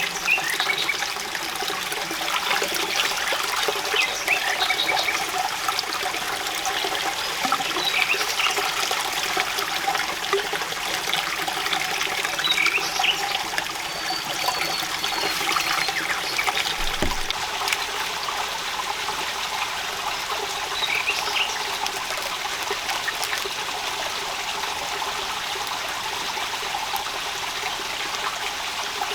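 Steady rain, with water trickling and dripping, and a few short high chirps here and there.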